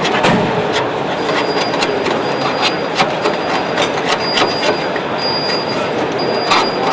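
Metalwork on a Triumph TR7 steel body shell: a run of sharp metallic clicks and taps, with a high-pitched squeal coming and going from about a second in, over a busy background hubbub.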